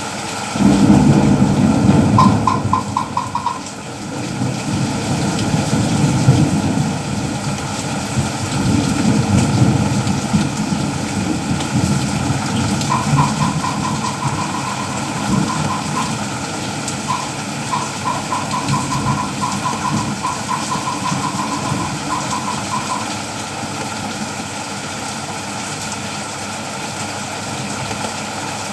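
Steady rain falling, with a motor vehicle's engine running close by, loudest in the first few seconds and fading by about two-thirds of the way through. A rapid string of short high beeps, about five a second, sounds briefly early on and again for several seconds in the middle.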